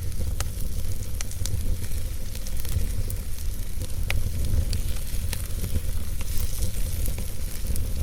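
Wood fire burning in a fireplace: a steady low rumble and hiss of the flames, with frequent sharp crackles and pops from the logs.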